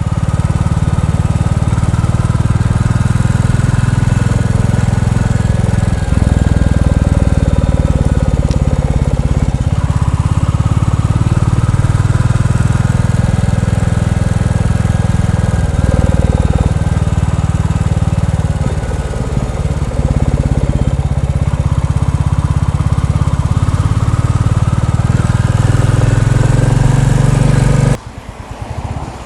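Royal Enfield Bullet 350's single-cylinder engine pulling under load while riding, the revs rising and falling with several gear changes, then dropping away suddenly near the end. This is the engine note in which the owner hears a wooden rattle or buzz in time with the firing at certain revs. He suspects induction noise, and owners take it for normal on a new Bullet, softening as the engine runs in.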